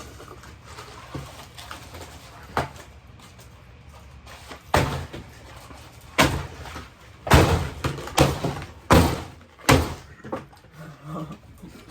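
A series of about seven loud knocks and bangs, irregularly spaced, coming closer together and loudest in the second half.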